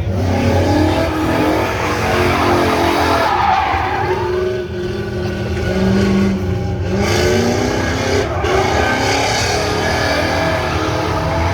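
Car engine revving loudly, its pitch rising and falling, with tires screeching against the pavement.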